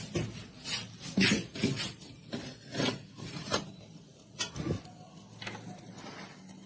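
A series of short, irregular scrapes and rubs, about ten strokes, growing fainter over the last couple of seconds.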